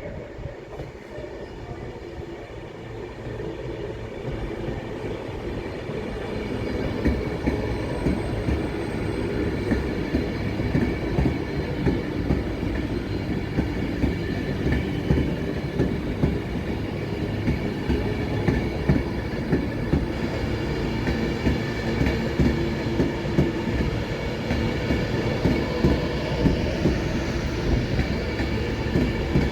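A train passing close by. Its rumble grows over the first several seconds, then holds steady, with the wheels clacking over rail joints again and again as the cars go by.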